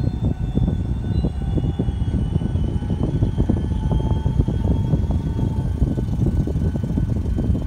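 Freight train rolling through a level crossing, heard from inside a stopped car. A steady low rumble carries many sharp clacks of wheels over the rail joints, with faint thin squealing tones above.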